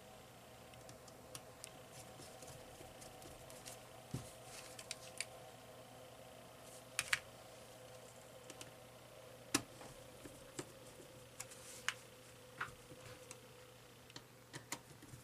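Irregular light clicks and taps of small plastic cordless-phone handset parts being handled and fitted, over a faint steady hum.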